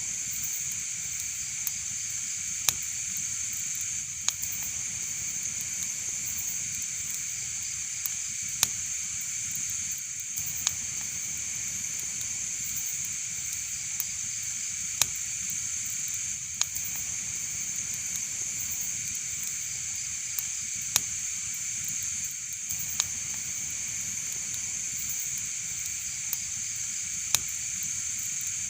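Wood fire burning in a fireplace: a steady hiss with sharp crackles and pops at irregular moments, about every one to two seconds.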